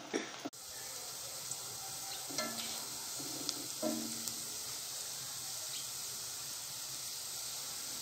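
Chopped onion with whole spices (bay leaf, cinnamon, cloves, cardamom) frying in oil in a pan, a steady sizzling hiss as the onion browns. A few light clicks sound a couple of seconds in.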